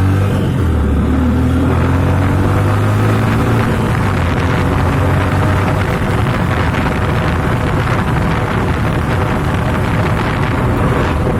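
Motorcycle engine running with a steady note, joined about two seconds in by a loud rushing noise like wind on the microphone, which covers the engine for the rest.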